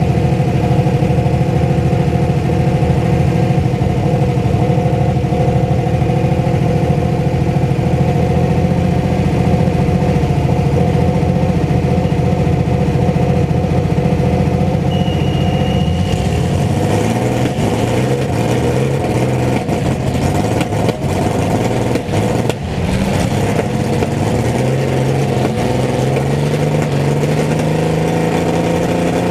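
Mini truck engines running hard in a race: a steady, loud drone for about the first half, then pitches rising and falling as the engines rev up and let off.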